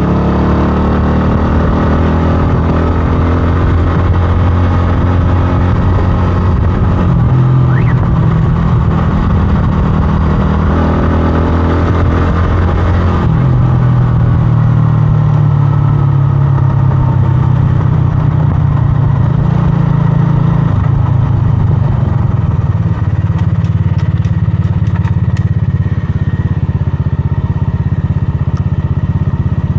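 125cc scrambler motorcycle engine running on the move, its note rising and falling several times as the bike changes speed.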